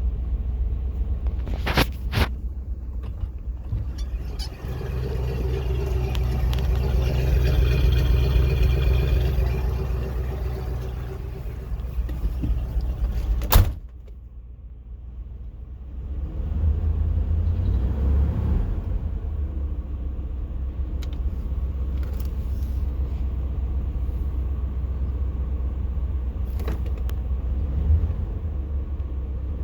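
1987 K5 Blazer's TBI V8 running shortly after a cold start, with the slight misfire the owner reports while it is cold. The engine sound swells and fades in the middle, a sharp knock comes about halfway through, and the running sound drops for a couple of seconds before coming back.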